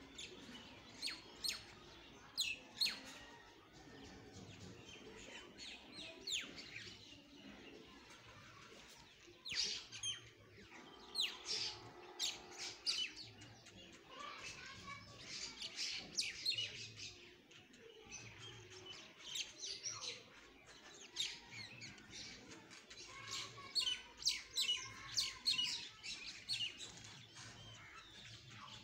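Small birds chirping: many short, high chirps come in quick runs throughout, some louder than others, over a low steady outdoor background.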